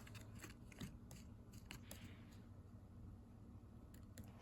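Faint clicks and scrapes of a small screw being turned by hand into a plastic kit part, several ticks in the first couple of seconds, then quieter.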